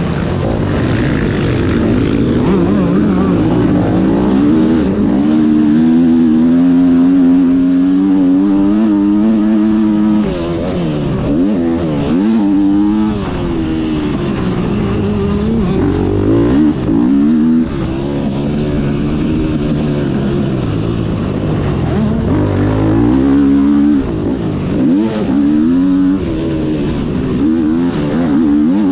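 Motocross bike engine running hard, its pitch climbing and dropping over and over as it accelerates and backs off.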